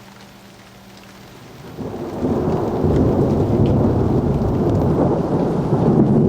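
Faint rain, then about two seconds in a long rumble of thunder builds quickly and carries on loud and deep.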